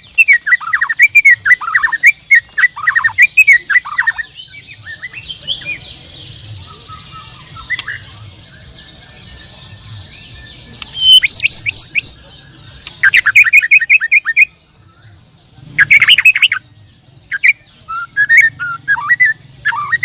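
White-rumped shamas (murai batu) singing loud, varied phrases in bursts: quick runs of falling whistles and sharp chirps, with more than one bird overlapping. There is a lull of softer song in the first half, and the full song picks up again about eleven seconds in.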